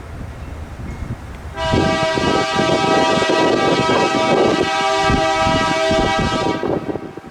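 Freight locomotive air horn sounding one long chord of about five seconds, starting about a second and a half in and cutting off near the end, over gusting wind on the microphone.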